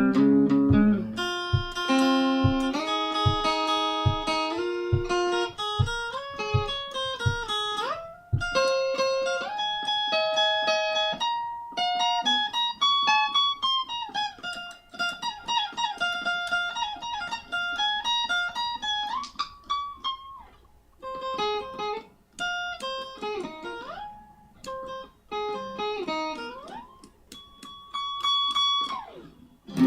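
Solo guitar playing a self-written piece that combines bass and lead lines, picked note by note in melodic runs. Some notes are bent or slid in pitch.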